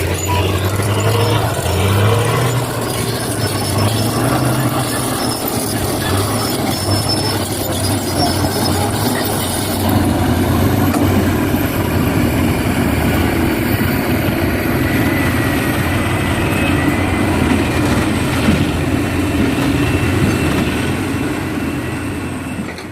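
Heavy diesel earth-moving machinery running under load: a low engine drone with a broad mechanical rattle over it, starting to fade right at the end.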